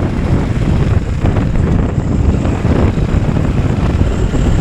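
Motorcycle engine running under way, mixed with steady wind rumble on the microphone.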